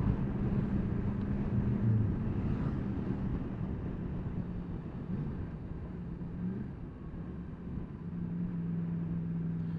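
Yamaha MT-10 SP's crossplane inline-four engine running under way, heard over wind and road noise. The engine note wavers and drops off briefly about seven seconds in, then holds steady near the end.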